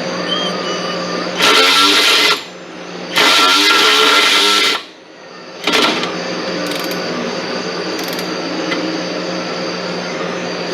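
A power tool running in two bursts, the first about a second long and the second about a second and a half, over a steady hum.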